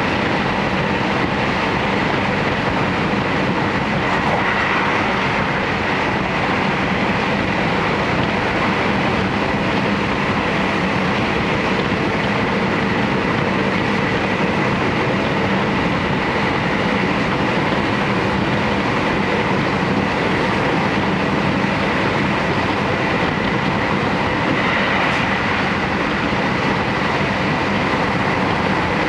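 JR Hokkaido Series 711 electric multiple unit heard from inside a passenger car, running at steady speed: an even rumble of wheels on rail, with a faint steady high tone over it.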